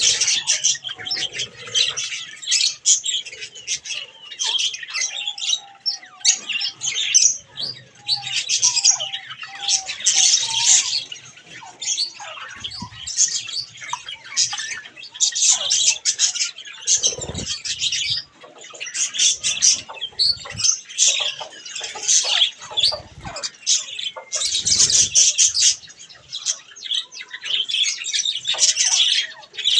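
A flock of budgerigars chattering and chirping continuously, with wings flapping now and then.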